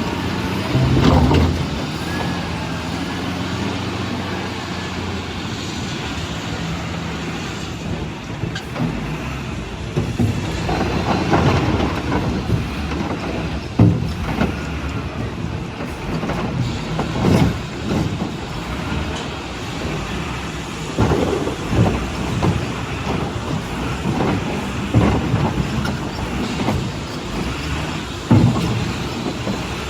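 Heavy truck's diesel engine running steadily, then irregular heavy knocks and thuds as work goes on around it.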